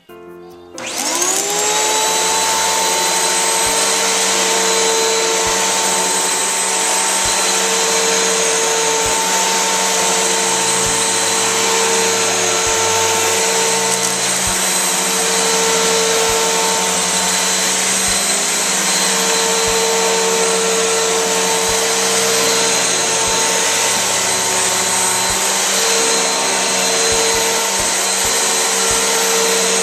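Eureka Whirlwind 3272AV bagless upright vacuum cleaner's 12-amp motor switching on about a second in, its whine rising as it spins up, then running steadily while vacuuming carpet.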